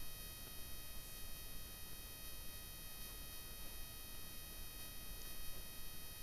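Steady low electrical hum and hiss, with faint high whining tones, from the recording chain and no other clear sound.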